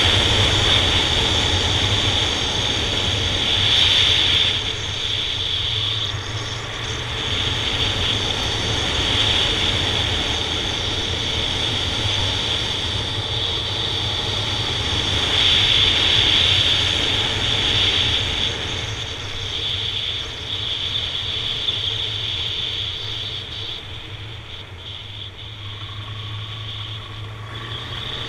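Honda Nighthawk 750's inline-four engine running as the motorcycle is ridden, its loudness swelling and easing off as the throttle changes, quietest in the last few seconds.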